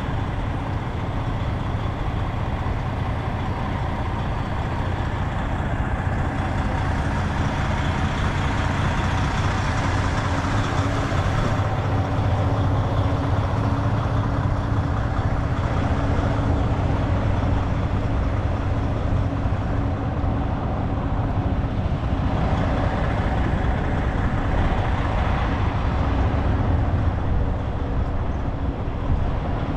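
Heavy truck engine running steadily, a low hum under a noisy hiss that swells and eases several times.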